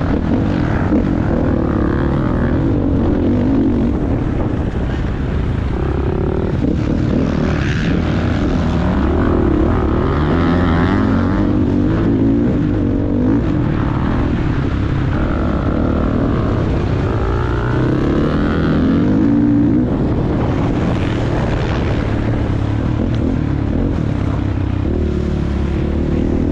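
Motocross bike engine being ridden hard, its revs rising and falling again and again as the throttle opens and closes and it shifts through the gears.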